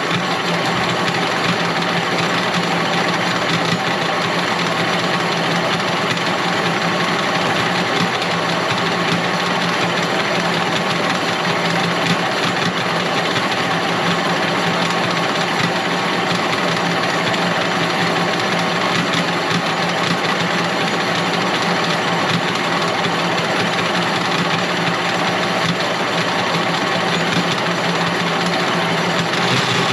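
Wire stripping machine running steadily as it strips insulation off copper wire.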